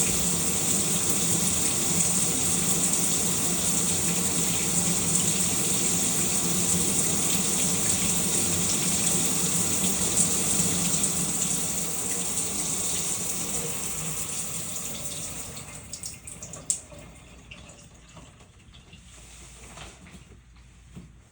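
Shower running: a steady hiss of falling water that weakens and stops about sixteen seconds in, followed by a few small knocks.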